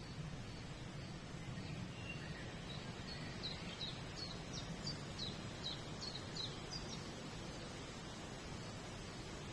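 A songbird singing a quick run of about ten short, high, falling notes lasting about three seconds in the middle, over a steady low background rumble.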